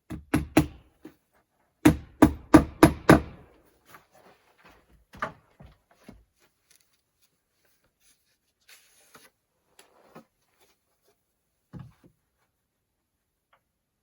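Hammer nailing shingles: a few blows, then a quick run of five strikes about three a second, followed by scattered lighter taps.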